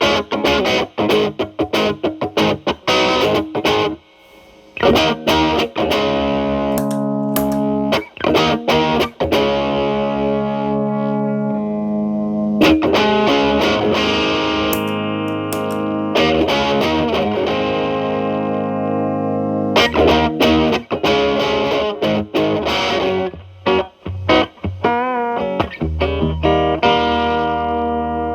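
Electric guitar, a Telecaster, played through an MI Audio Crunch Box distortion pedal (early version) set to gain about 8–9 with tone at maximum, into a Marshall Valvestate's clean channel. Quick picked notes give way to distorted chords held ringing for several seconds, then more rapid picking near the end.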